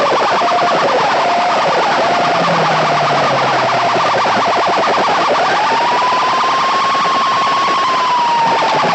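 Loud DJ sound-box speakers blaring an electronic siren-like effect over a fast pulsing beat. The wavering tone rises about five seconds in, holds high and eases down near the end.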